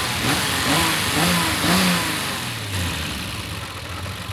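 Turbocharged BMW S38 straight-six engine running and being revved, its pitch rising and falling a few times before settling toward idle near the end.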